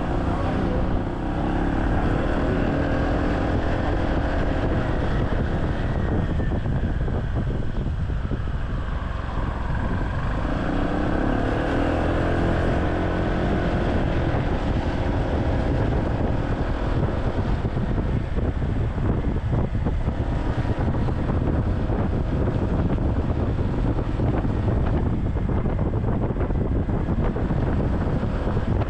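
Motorcycle-taxi engine pulling, its pitch rising and falling as the bike speeds up and slows, under a steady rumble of wind on the microphone.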